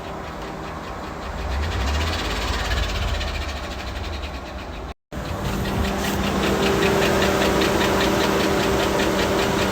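GMC Yukon XL's 5.3-litre V8 running with a rapid, regular knock from a worn connecting-rod bearing (rod knock). The sound cuts out for an instant about halfway, then the engine and its knocking carry on steadily.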